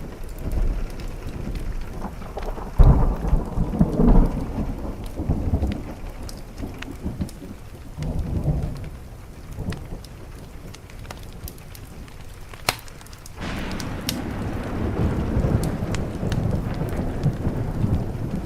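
Thunder rumbling over steady rain, loudest about three and four seconds in, easing off in the middle, then swelling again near the end. Scattered sharp crackles of a wood fire sound through it.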